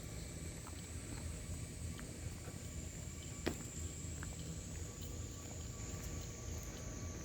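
Low, steady rumble of a Kia Bongo III truck's engine idling, with a thin, steady high-pitched tone above it and a single sharp click about halfway through.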